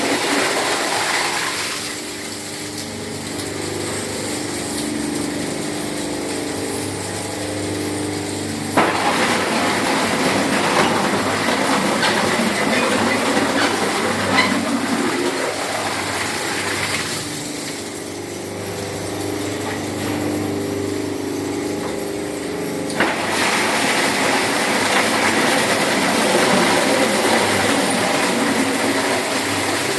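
Scrap-metal shredder in use. Spells of steady motor hum while it runs empty alternate with stretches of loud grinding and clattering as its blades chew through scrap such as tin cans and sheet metal. The hum comes twice, each time for several seconds.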